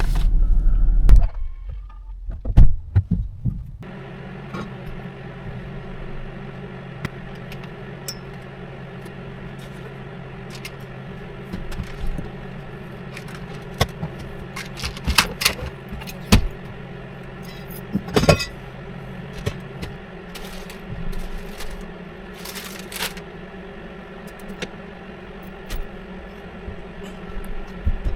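Steady hum of an idling truck heard from the cab, with scattered clicks, clatter and jingles of things being handled. A loud low rumble cuts off about a second in.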